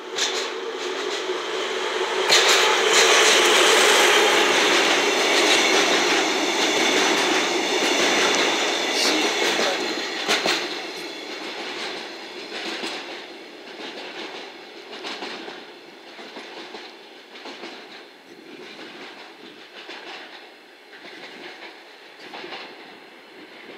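DE10 diesel locomotive passing close by, loudest a few seconds in, followed by flat wagons loaded with rails rolling past with a rhythmic clickety-clack over the rail joints that fades as the train pulls away.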